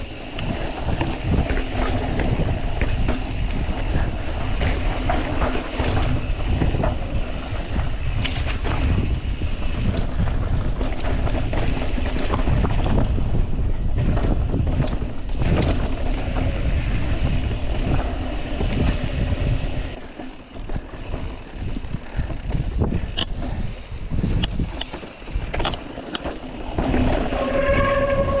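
Mountain bike descending a rocky trail at speed: wind rushing over the microphone with the frame and parts rattling and knocking over the rough ground, easing a little for the last several seconds.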